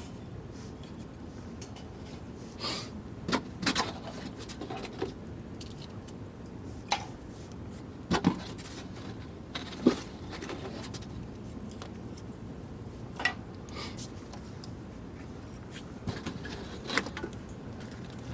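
Scattered clinks and knocks of camp cookware and gear being handled, some with a brief metallic ring, over a steady low background hiss.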